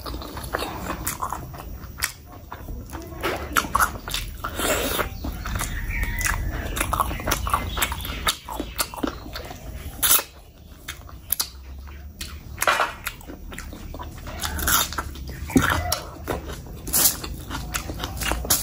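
Close-miked, ASMR-style chewing of big handfuls of rice and spicy curry, with many quick wet smacks and clicks of the mouth. Fingers squish rice into the curry between bites.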